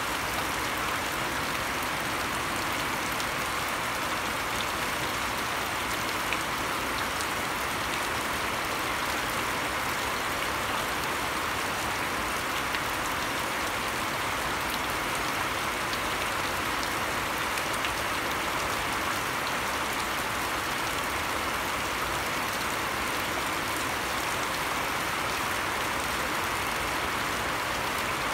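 Steady rain falling on grass and a shallow puddle: an even hiss with scattered drop ticks.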